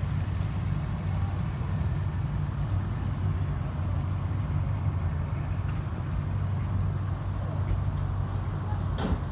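A steady low hum over outdoor background noise, with a short sharp click just before the end.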